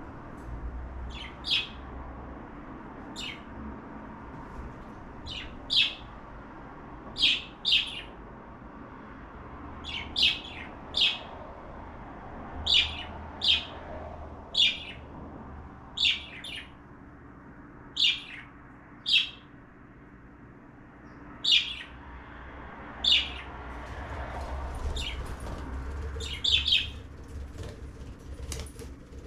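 Cockatiel chirping: short, sharp high calls, often in quick pairs, repeated every second or two over a low steady background hum.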